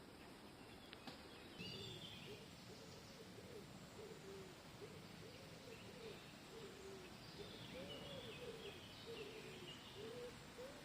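Faint outdoor birdsong: a long run of low cooing notes, one or two a second, starting a moment in, with short higher songbird chirps twice over it.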